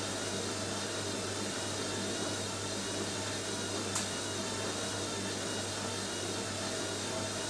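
Washing machine on its spin cycle, the drum spinning laundry at speed: a steady deep hum with a hiss above it, and one brief tick about four seconds in.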